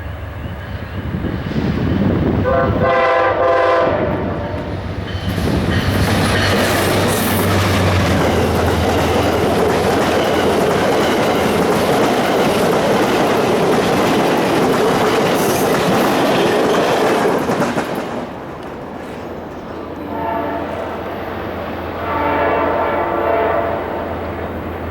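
A train horn blows, then a train passes close by at speed with a loud rush of wheels and cars for about twelve seconds, then the horn sounds again, fainter, near the end.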